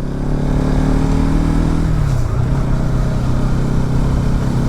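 Motorcycle engine running steadily under way, over a low rumble of wind and road noise; the engine note drops to a lower pitch about two seconds in.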